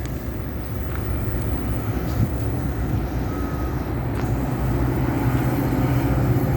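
Steady low rumble and hum of a moving vehicle, growing slightly louder in the second half.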